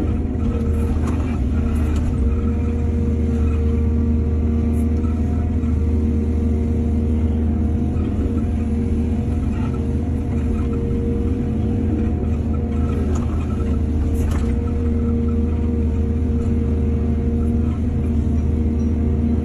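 Excavator's diesel engine running steadily, with a few short knocks or clanks, the loudest about 14 seconds in.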